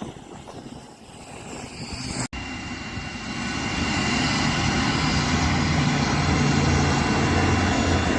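Airliner engines running at take-off power. After an abrupt cut about two seconds in, a loud, steady engine roar with a held whine builds for a second or so and then holds.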